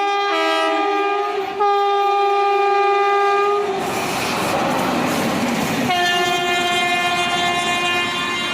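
Diesel or electric locomotive air horn of an Indian Railways express train blowing long steady blasts, two tones together at first, then one tone until about three and a half seconds in. Train rumble follows, and another long blast begins about six seconds in.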